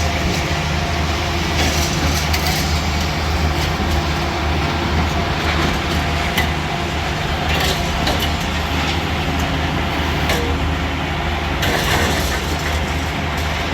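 A heavy diesel engine running steadily as a low drone, with scattered knocks and clatter over the hiss of rain.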